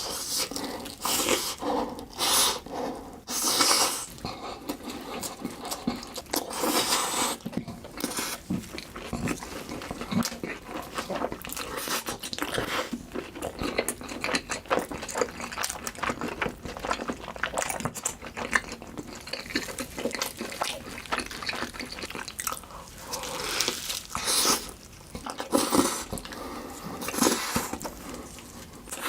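Close-miked eating sounds: wet chewing and smacking in a run of short, irregular bursts.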